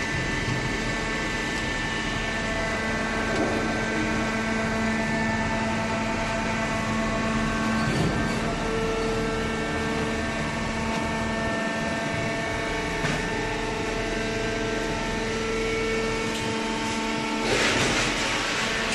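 Hydraulic cardboard baler running: a steady machine hum from its motor and pump, with a louder rush of noise coming in near the end.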